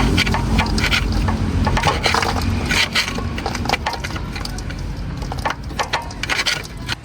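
A quick, irregular series of knocks and clatters, like parts and tools being handled, over a faint low rumble.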